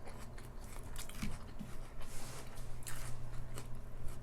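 Close-up chewing of a crunchy homemade fried onion ring: a run of crisp, irregular crunches and bites over a low steady hum.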